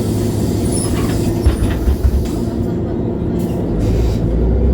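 Cabin noise of a MAN Lion's City G articulated bus on the move: a steady engine drone with a few sharp rattling knocks about one and a half to two seconds in, and a deeper rumble building near the end.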